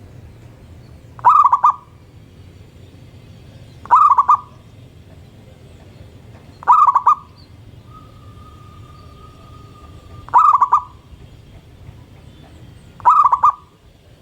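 Zebra dove (perkutut) cooing: five short, rolling coos, each about half a second long and made of quick pulses, repeated about every three seconds.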